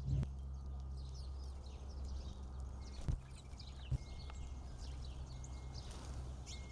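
Small birds chirping, many short high calls overlapping throughout, over a steady low hum. A few sharp knocks sound near the start, about three seconds in, and about four seconds in.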